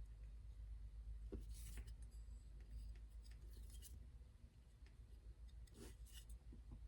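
Faint, light strokes of a Nitro-V steel knife edge drawn freehand across a sharpening stone, a few scattered scrapes. These are the no-pressure finishing passes that refine the edge without raising a new burr.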